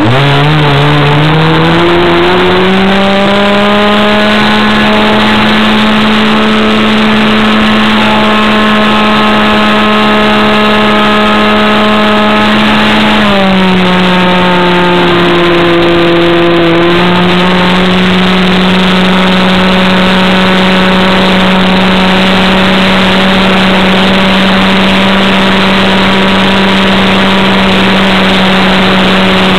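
Avistar 53 two-stroke model-airplane engine running loud and close, heard from a camera mounted on the plane. It revs up over the first few seconds and holds a steady pitch. About thirteen seconds in the pitch drops, then it levels off and runs steady again.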